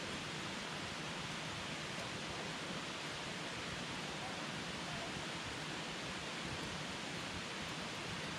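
Campfire burning with a steady hiss of flames and a few faint crackles.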